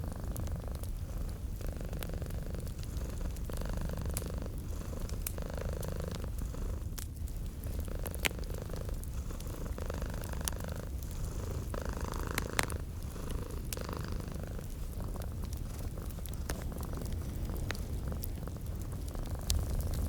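Domestic cat purring steadily, swelling and easing with each breath, over a fireplace crackling with scattered sharp pops.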